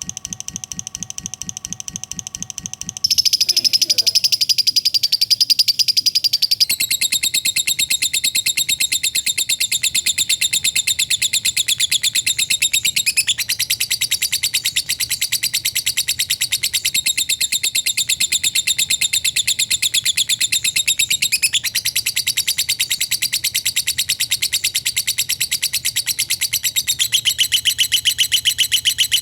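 Lovebird's long chattering trill (ngekek panjang): an unbroken run of very fast, high-pitched notes. It gets louder about three seconds in and shifts slightly in pitch several times.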